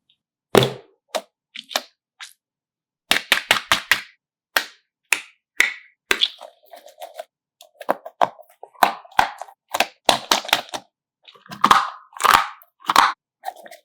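Slime being squeezed and worked by hand, its trapped air bubbles popping in quick clusters of sharp, crackling snaps, broken by short stretches of silence.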